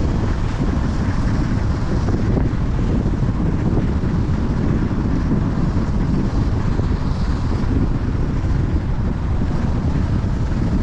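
Loud, steady wind rushing over the microphone of a moving vehicle, with road and engine noise underneath.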